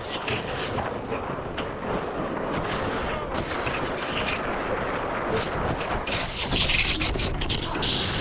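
A sled sliding fast down a snow slope: continuous rough scraping and crackling of the sled on the snow with wind on the microphone, getting louder and harsher in the last couple of seconds.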